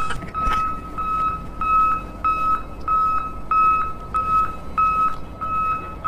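Toy JCB wheel loader's electronic sound unit beeping: a string of about ten short, high beeps at one pitch, evenly spaced, like a reversing alarm.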